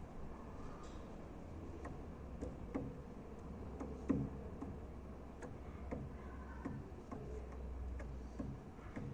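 White-winged dove pecking at food, its bill tapping in irregular sharp clicks about once or twice a second, the loudest a little after four seconds in, over a steady low rumble.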